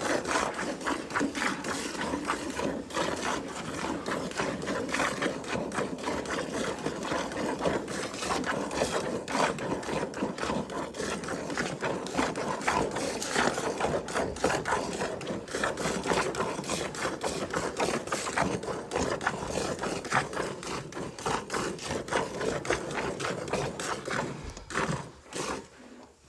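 A cow being milked: a fast, steady rhythm of short strokes that keeps on for over twenty seconds and dies away near the end.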